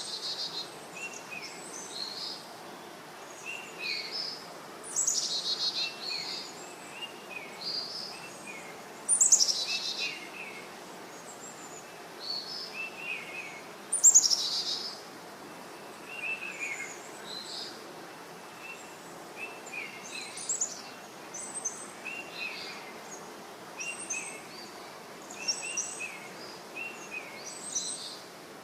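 Birds chirping with short, repeated calls and a few louder rapid trills, over a steady background hiss.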